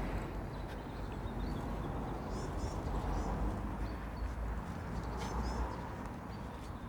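Small birds chirping in short repeated phrases, a couple of clear bursts, over a steady low rumble and hiss of outdoor background.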